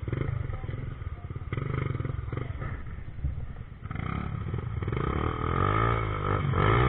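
Trail motorcycle engine revving, its pitch rising and falling over and over and getting louder toward the end.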